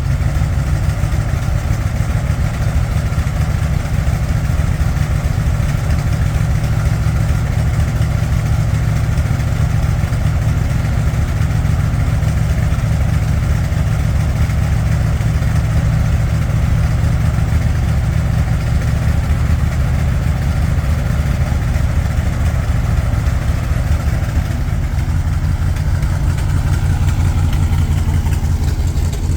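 1974 Dodge D600 grain truck's engine idling steadily.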